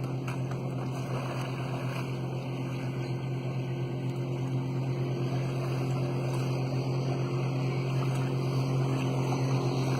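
A steady engine hum, slowly getting louder.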